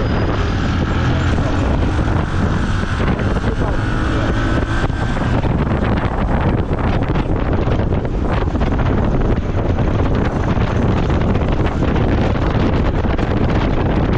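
Wind rushing over the microphone on a moving motorcycle, a boda boda taxi, with the bike running underneath. The noise is loud and steady throughout.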